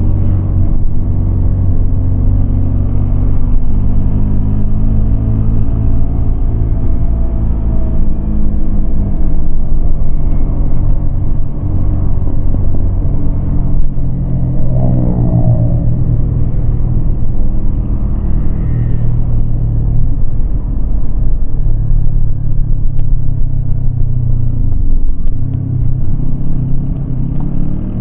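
Yamaha MT-25 motorcycle's parallel-twin engine running under way, its pitch rising and falling as the throttle opens and closes. Near the end it drops briefly, then climbs again.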